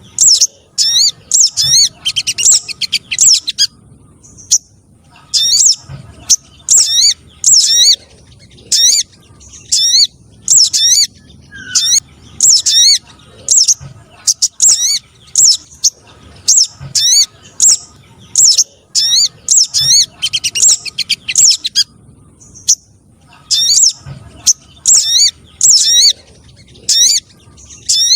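Bird-lure recording of spiderhunter and sunbird calls: rapid series of sharp, high chirps in bursts of a second or two, with short pauses between bursts.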